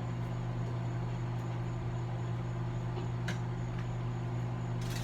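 Microwave oven running with a steady low hum while it cooks a bowl of macaroni in water; a faint tick about three seconds in.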